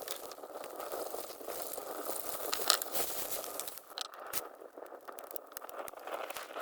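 Rustling and crackling, with many small sharp clicks and one louder snap about two and a half seconds in.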